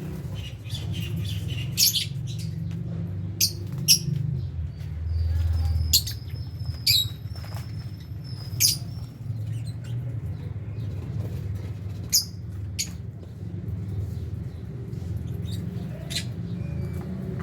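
Lovebirds giving short, sharp high chirps and squawks, scattered every second or so, over a steady low hum.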